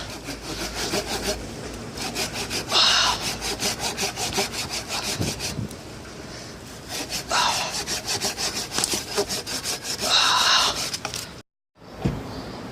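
Small hand saw cutting through a log: a steady run of rasping saw strokes, with a few louder passages. The sound drops out completely for a moment near the end.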